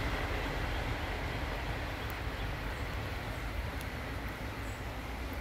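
Rumble and hiss of a passing freight train receding into the distance, fading slowly.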